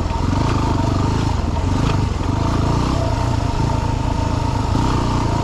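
Dirt bike engine running at fairly steady revs while riding slowly over a rocky trail.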